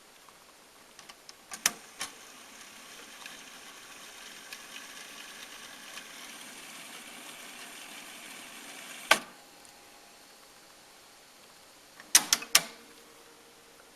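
Pioneer CT-F650 cassette deck's transport: a few key clicks, then the tape winding at speed with a steady whir for about seven seconds, a loud clunk as it stops, and another cluster of key clicks near the end.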